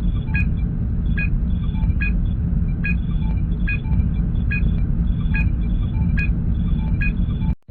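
Star Trek starship ambience sound effect: a steady low engine rumble with a short, high computer blip repeating a little more than once a second. The sound cuts out abruptly for a moment right at the end.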